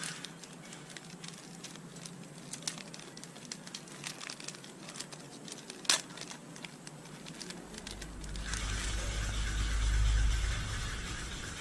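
Light clicking and crinkling of small parts being handled, with one sharp click about six seconds in. From about eight seconds in a low rumble swells and then eases off.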